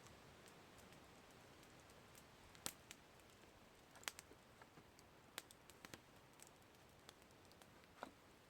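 Campfire crackling faintly: irregular sharp snaps and pops of burning wood over a steady soft hiss, the loudest snaps about two and a half, four and five and a half seconds in.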